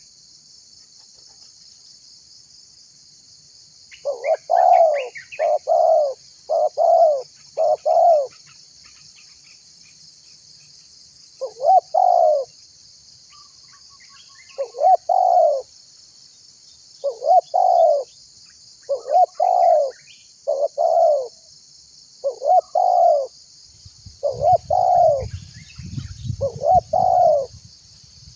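Spotted dove (tekukur) cooing: short, hollow coo notes, first a quick run of four, then single coos repeated every second or two. A steady high hiss runs underneath, and a low rumble comes in near the end.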